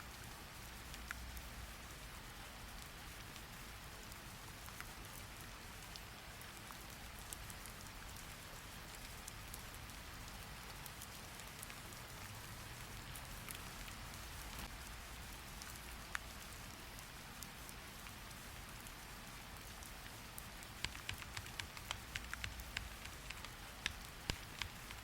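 Steady rain falling. Near the end a run of quick, irregular clicks of keyboard typing comes in over it.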